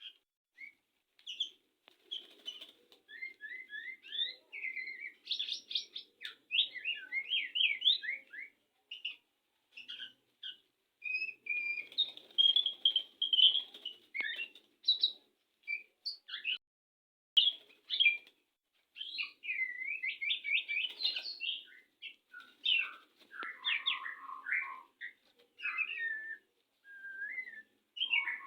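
White-rumped shama (murai batu) singing a varied courtship song: many short whistled phrases and quick trills, with brief gaps between them.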